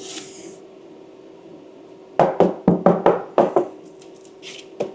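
A quick run of about eight sharp knocks over a second and a half, then two more near the end: a hand tool striking the car's steel bodywork, chipping at old seam sealer.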